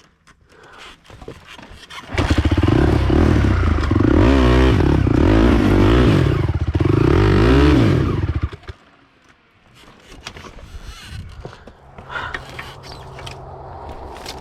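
Honda TRX450R quad's single-cylinder four-stroke engine revving up and down repeatedly for about six seconds, starting abruptly about two seconds in, then dropping off. A steady low engine hum follows near the end.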